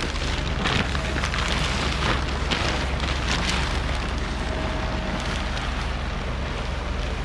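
Plastic silage sheeting rustling and crackling in irregular bursts as it is handled, strongest in the first few seconds, over a steady low rumble.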